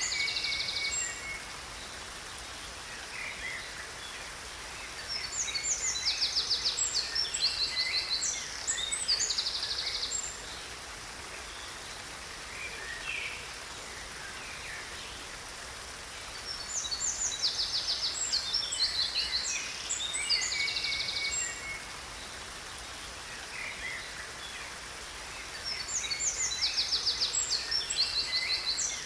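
Songbirds singing bursts of quick chirps and rapid trills, with a song recurring roughly every ten seconds, over a steady hiss of falling water from a waterfall.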